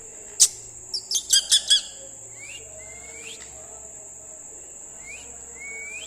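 Pet parrot calling: a quick run of five short chirps, then a few short upward-sliding whistled calls. A sharp click comes just before the chirps, and a steady high-pitched whine runs underneath.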